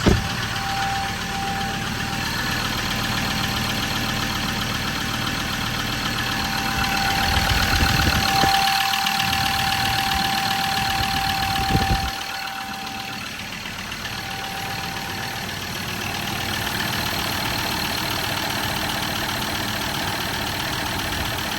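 Ford Ranger 3.2L five-cylinder diesel idling steadily on freshly fitted injectors, with no ticking noise. A steady whine runs over the engine sound. The sound grows louder for a few seconds in the middle and drops off sharply about twelve seconds in.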